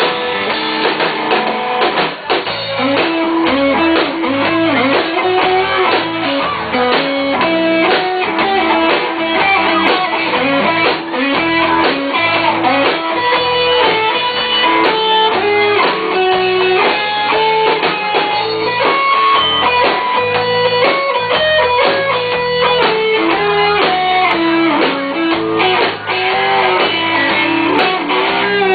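Rock band playing an instrumental break with no vocals, an electric guitar carrying a melodic lead line over the accompaniment of the band.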